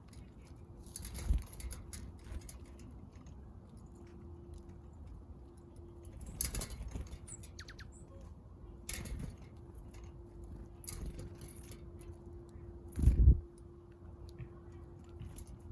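Small backyard birds at a feeder: scattered wing flutters, landings and pecks, the loudest a short deep thump about thirteen seconds in, over a faint steady hum.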